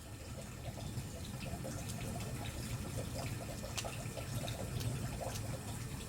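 Wood bonfire burning, its logs crackling with scattered sharp pops over a steady low rumble of flame.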